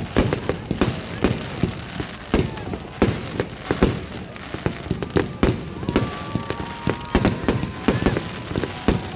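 Fireworks display: a rapid, continuous series of bangs and pops, several a second.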